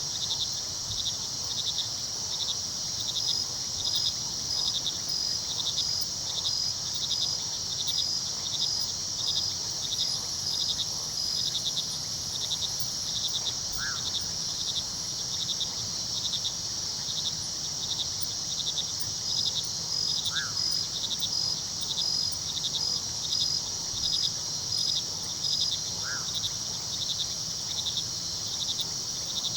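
Crickets at night: a steady high trill with regular chirps at more than one a second, and a second insect pulsing in two stretches of several seconds. A short call comes three times, roughly every six seconds, over the faint low rush of the river.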